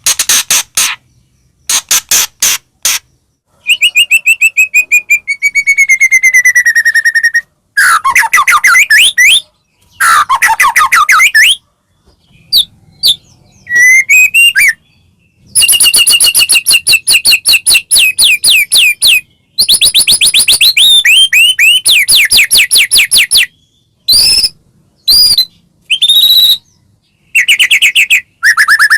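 White-rumped shama (murai batu) singing a loud, varied song. Fast runs of repeated notes alternate with sliding whistled phrases, with short pauses between phrases.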